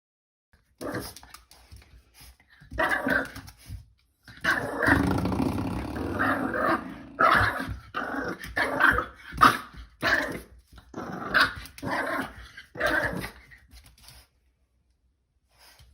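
A dog growling and barking in a series of short bursts, with one longer stretch about five seconds in.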